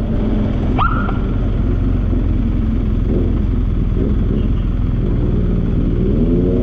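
Motorcycle engine running steadily under way, with wind and road noise; a short rising tone cuts through about a second in.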